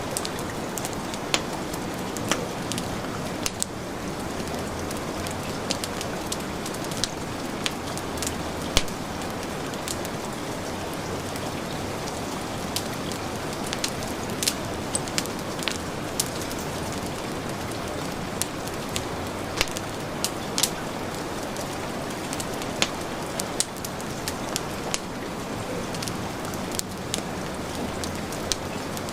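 Steady heavy rain mixed with a crackling wood fire: an even rush of rain throughout, with irregular sharp pops and snaps from the burning logs.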